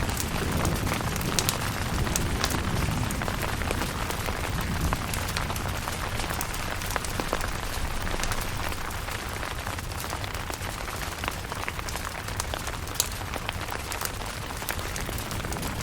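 Steady rain on a tent, with many sharp ticks of single drops landing. A low rumble of thunder dies away over the first couple of seconds.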